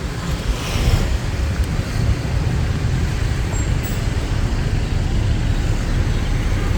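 City street traffic: a steady low rumble of passing cars and other vehicles.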